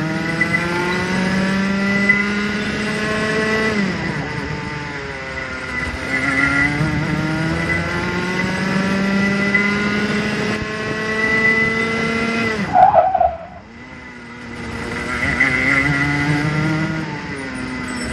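Two-stroke go-kart engine revving up in long rising sweeps, each lasting several seconds, then dropping as it comes off the throttle. About two-thirds of the way in there is a brief squeal, the sound falls away for a moment, and then it climbs again.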